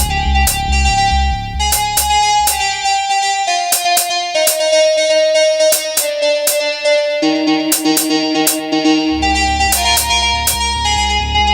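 Electronic synthesizer jam: a bright, overtone-rich synth lead plays a melody over drum-machine hits and a synth bass line. The bass drops out about three seconds in and comes back full about nine seconds in.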